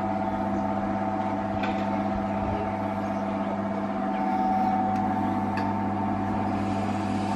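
A small engine running steadily with a constant, even hum.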